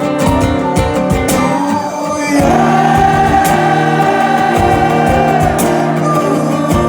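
Live band music with singing. A long held vocal note starts about two and a half seconds in, over sharp percussion hits and instrumental accompaniment.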